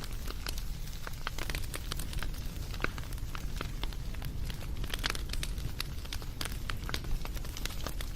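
Wood campfire crackling and popping, with many sharp irregular snaps over a low steady rumble of the burning fire.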